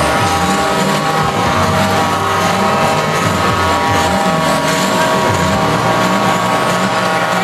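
Heavy truck engine revving up and down repeatedly, over a bed of steady high tones.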